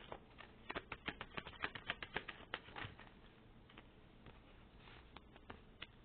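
Tarot cards being shuffled by hand: a quick run of soft card flaps and clicks for about two seconds, then a few scattered clicks.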